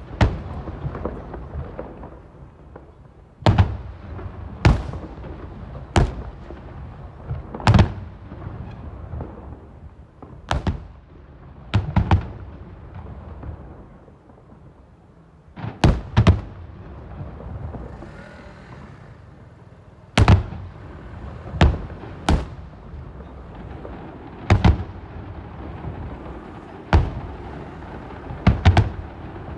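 Aerial fireworks shells bursting in a long irregular volley, sharp booms coming every one to four seconds, some in quick pairs, each followed by a rolling echo. There is a short lull about halfway through.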